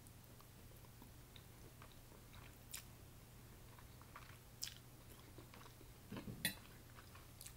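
Faint chewing of a mouthful of rice noodles, with a few soft, short mouth clicks spread through.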